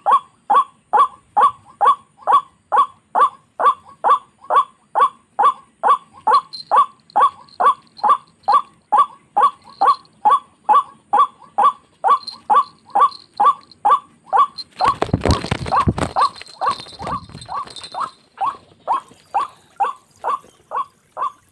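White-breasted waterhen giving its repeated 'kruak' call, one note after another at about two to three a second, without a break. About two-thirds of the way through, a burst of rustling and thumping lasts about two seconds while the calling goes on.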